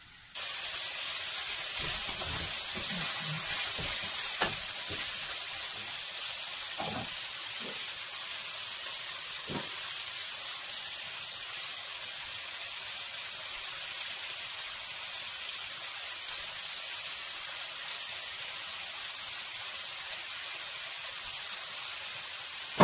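Green beans, bean sprouts and beef balls sizzling as they stir-fry in a hot oiled pan: a steady hiss that starts suddenly and is loudest in the first few seconds. A few light knocks of the tongs against the pan come through it.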